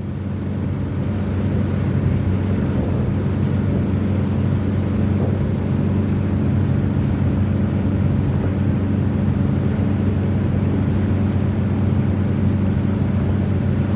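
Motorboat engine running with a steady low drone, getting louder over the first two seconds and then holding level.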